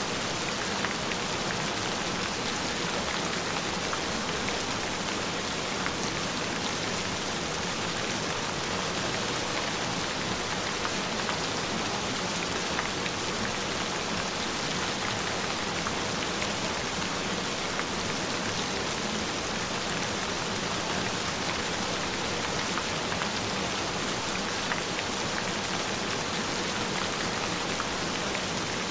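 Steady, even rain falling, with a faint steady tone underneath.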